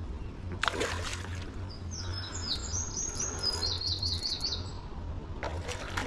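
A small songbird singing a quick series of high chirps that ends in a rapid run of notes, lasting about three seconds. Two brief noisy rushes, one about half a second in and one near the end, with a low steady hum underneath.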